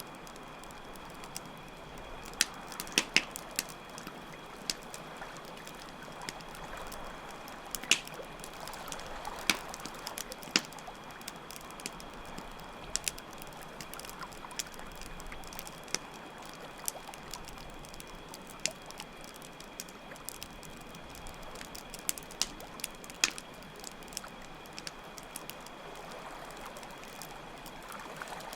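Campfire crackling with sharp, irregular pops over a steady rush of flowing water, and crickets chirping as a steady high trill.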